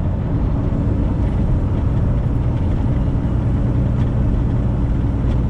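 Cab noise of a 2018 Freightliner semi truck cruising on the highway: a steady low engine and road rumble with a constant hum.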